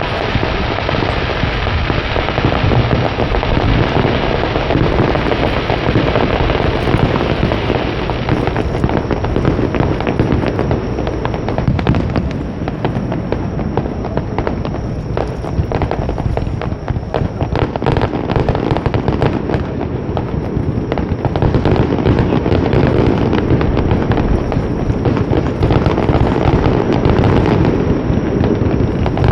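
Fireworks finale barrage: many shells bursting in rapid, overlapping succession, with a dense crackle of small pops running through it, easing slightly midway and building again near the end.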